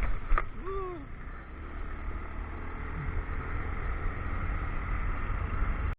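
Motorcycle riding along with engine rumble and wind noise on the action camera's microphone. There is a sharp knock about a third of a second in and a brief short vocal sound just after it.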